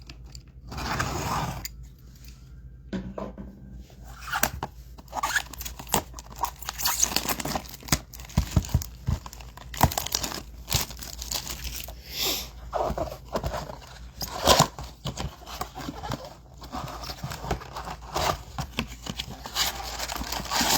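Trading card packaging being torn open by hand: a blaster box and foil card pack wrappers ripping, with irregular crinkling and rustling throughout.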